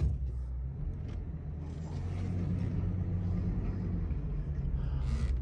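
2003 Ford F-350's 6.8-litre V10 gas engine running as the truck drives, heard from inside the cab, a steady low rumble growing gradually louder. A brief hiss near the end.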